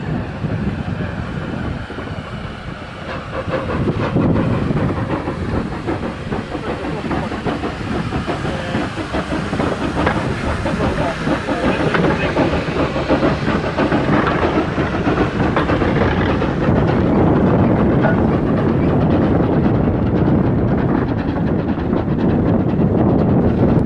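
Steam locomotive working on the line, with steam hissing over the running noise, growing louder in the last third.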